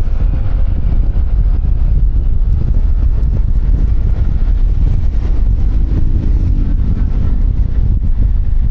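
Wind buffeting a helmet-mounted microphone on a moving QJMotor Fortress 160 scooter, a loud steady low rumble with the engine and road noise underneath.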